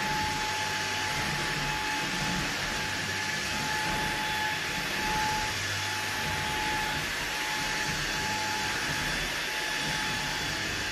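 Eureka cordless vacuum cleaner running steadily: an even rush of airflow with a thin, steady motor whine.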